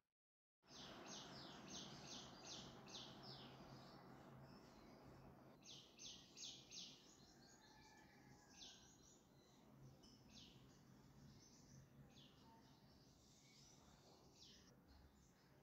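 Near silence: faint room tone with a steady low hum and clusters of quick, high chirps from small birds, after a brief dead-silent dropout at the very start.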